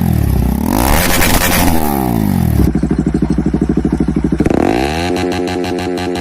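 Exhaust of a Bajaj Pulsar single-cylinder motorcycle engine, blipped up and down in quick revs. About two and a half seconds in it drops to a steady, pulsing idle, and near the end the revs rise again and hold.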